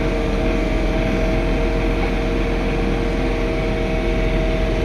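John Deere 3046R compact tractor's three-cylinder diesel engine running steadily at working speed while snow blowing, heard from inside the cab: a constant rumble with a steady hum of several fixed tones.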